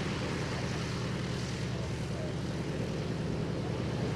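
A light aircraft's piston engine and propeller running steadily at constant power, a continuous drone.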